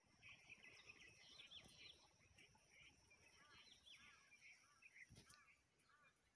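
Faint birdsong: several birds chirping, with quick slurred notes and a run of short repeated arched notes in the second half, over a faint steady high tone. A single soft thump comes about five seconds in.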